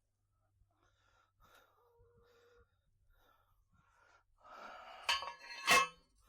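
Steel fence T-post being handled: faint knocks and rustles, then breathy noise and two sharp metal clanks near the end, the second loud and ringing.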